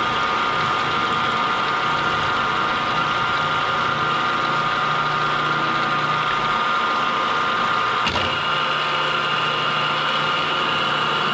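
Metal-cutting machine tool running steadily at about 450 RPM while its cutter slots a keyway in a steel bushing, with a single sharp click about eight seconds in.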